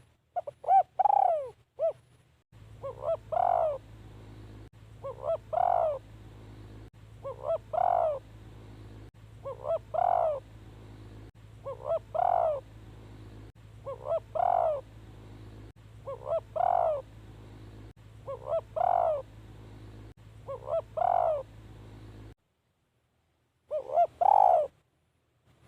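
Spotted dove cooing: a short phrase of a few soft notes ending in a louder, longer coo, repeated about every two seconds. A steady low hum runs underneath for most of the time.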